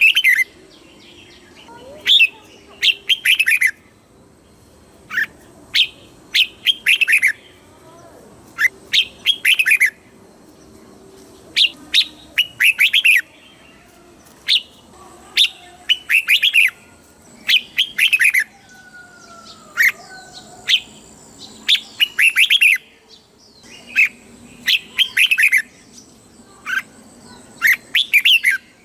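Red-whiskered bulbul singing: short, bright phrases of quick downward-sweeping whistled notes, repeated every couple of seconds.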